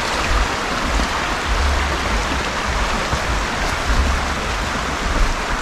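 Steady rushing of water, with irregular low rumbling beneath it.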